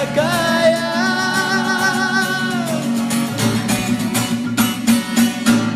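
Singing to guitar: a singer holds one long, slightly wavering note for nearly three seconds over the guitar, then the guitar goes on alone with rapid strummed chords.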